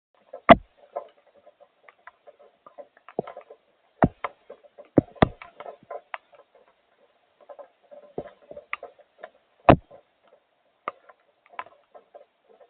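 Irregular raindrops tapping on a hard surface, a few light taps a second with several louder, sharper knocks scattered among them.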